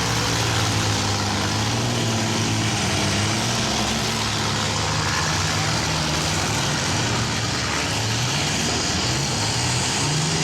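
Engines of several demolition derby vans, pickups and SUVs running together in a steady din, their pitch wavering up and down.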